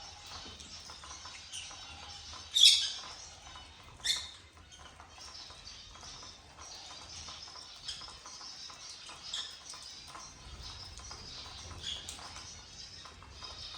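Gouldian finches chirping and twittering in short high calls, with two much louder sharp calls about two and a half and four seconds in, over a light patter of scratching or rustling.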